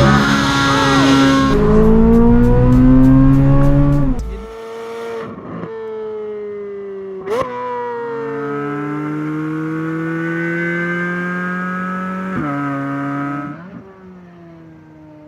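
Chevrolet Corvette C8 Z06's flat-plane-crank, naturally aspirated V8 through its exhaust: loud, high-revving running for the first four seconds, then a lower, steadier note that climbs slowly, with a sharp rev blip about seven seconds in and quick drops in pitch near the end, where it gets quieter.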